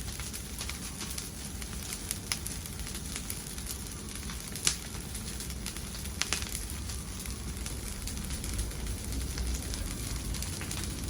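Wood fire burning in a fireplace: a steady low rumble and hiss with scattered crackles and pops, the sharpest about four and a half and six seconds in.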